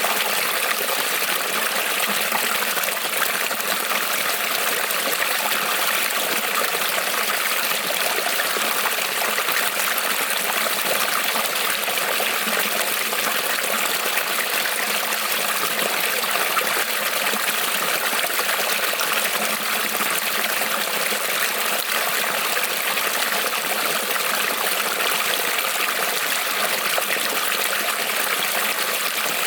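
Small creek rippling and trickling over stones: a steady, even rush of running water.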